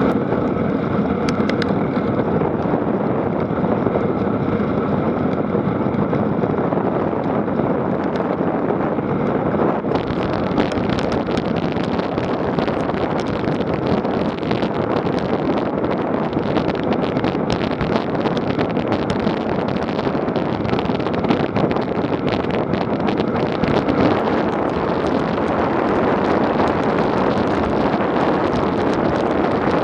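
Wind rushing over an action camera's microphone while riding a bike, with a steady clatter of the bike rattling over rough ground. About ten seconds in the noise becomes brighter and the rattling and knocks grow thick and frequent.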